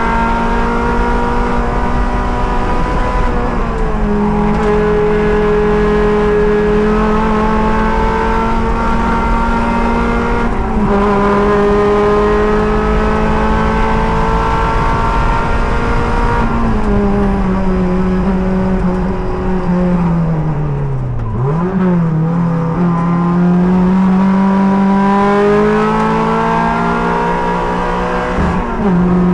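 Sports car engine driven hard on a race track, heard from the driver's helmet over wind and road noise. The engine note holds high with quick drops in pitch at gear changes, sinks steadily to a low point about two-thirds of the way through as the car brakes into a corner, then climbs again under acceleration.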